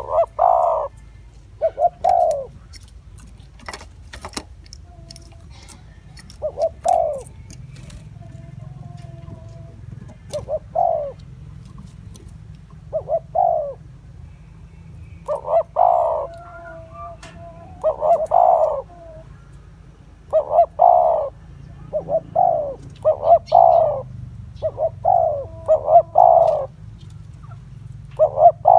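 Spotted dove cooing: repeated short phrases of two to four coos, coming more often in the second half. A few sharp clicks sound near the start, over a steady low hum.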